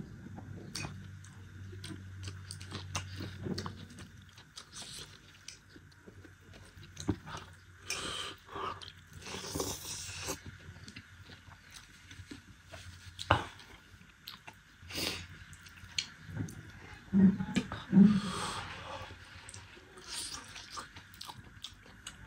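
Close-up mukbang eating sounds: a man chewing and smacking mouthfuls of rice and meat, with the wet squish of his fingers mixing food on a steel plate. About three-quarters of the way through come two short, louder hums from his throat.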